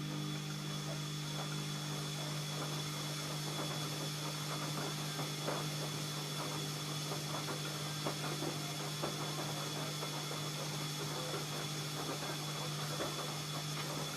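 ELIN A 100 E washing machine's motor running with a steady low hum over a light crackling hiss.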